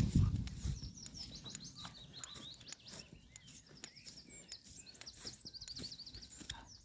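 Small birds chirping and twittering: many short high notes, with a fast run of repeated notes about five seconds in.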